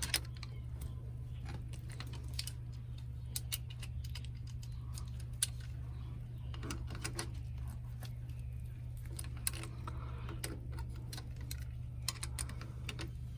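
Scattered sharp metallic clicks and ticks of slip-joint pliers gripping and turning the jam nut on a hose faucet, over a steady low hum.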